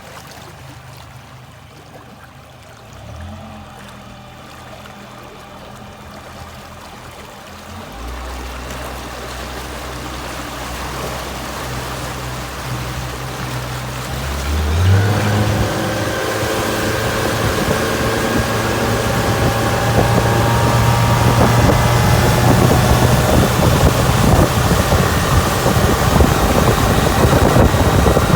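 Suzuki DF115 four-stroke outboard motor running at low speed, then throttled up about halfway through, its pitch climbing slowly and steadily. The rush of water and wind grows louder as the boat gains speed.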